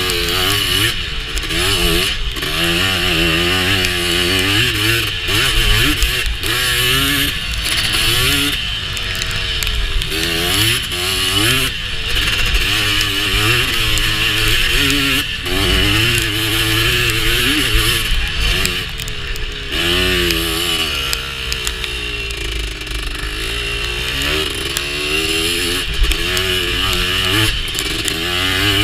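Honda TRX250R's single-cylinder two-stroke engine under way while riding, its revs rising and falling continuously with the throttle.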